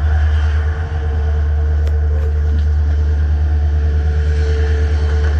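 Alaska Railroad passenger train under way: a loud, steady low rumble with a constant hum above it.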